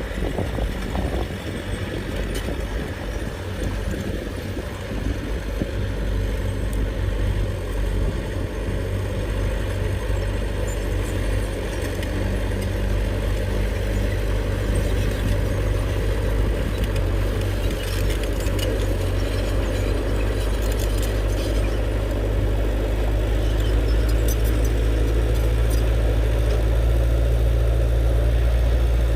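Small crawler bulldozer's diesel engine running steadily under load, a low drone that grows louder toward the end, with faint clicks in the middle.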